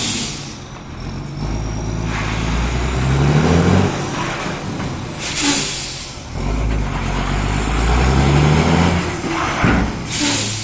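Scania truck's diesel engine pulling away twice, its pitch climbing each time, with a sharp hiss of released air-brake air between the pulls and again near the end.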